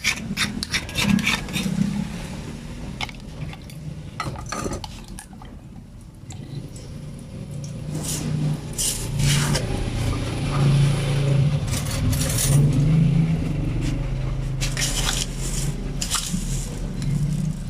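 Kitchen utensils and cookware clinking, knocking and scraping in short irregular strokes, over a steady low hum.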